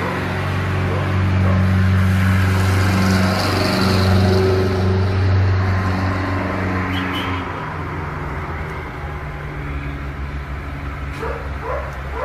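A steady low motor hum, as of a car engine running. A few short animal cries come near the end.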